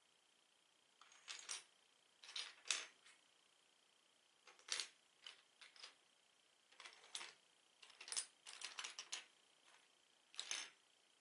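Plastic Lego bricks being handled: small hard clicks and rattles in irregular clusters, the sharpest about three seconds in.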